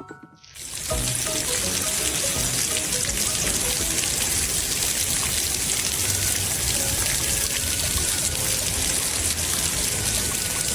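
Steady rushing of running water, starting just after a short silence, with faint background music over it.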